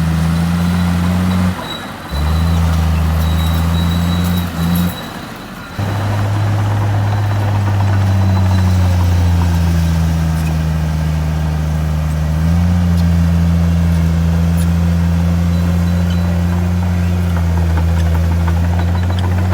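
Heavy diesel engine of earthmoving machinery running with a steady low drone. The sound breaks off abruptly twice in the first six seconds, and the engine note shifts slightly about halfway through.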